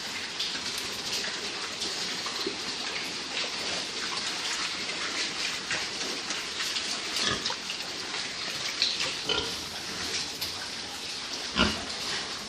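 Pigs in a pen giving a few short grunts over a steady hiss, the loudest one near the end.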